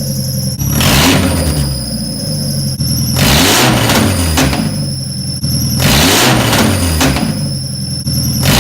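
Mazda Miata's four-cylinder engine running on open headers with no downpipe, revved again and again: the revs climb and fall back about every two and a half to three seconds. A steady high-pitched whine sits over it.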